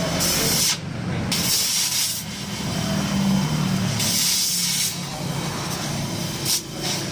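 Toyota Avanza engine running through an aftermarket HKS racing muffler, a low, rough exhaust note with a hiss that comes and goes over it.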